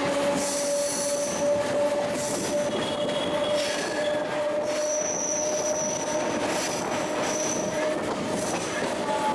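MEMU electric commuter train running on the rails, with a steady whine and high-pitched wheel squeal that comes and goes.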